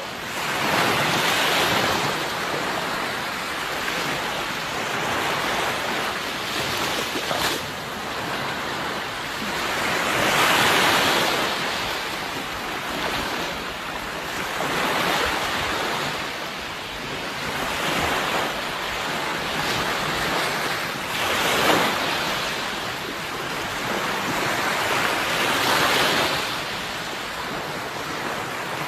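Sea waves breaking and washing ashore, a steady surf hiss that swells and falls back every few seconds.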